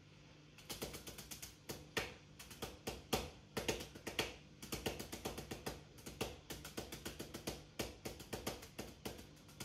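Close-up eating sounds: rapid, irregular mouth clicks and smacks of chewing food, several a second, starting about half a second in.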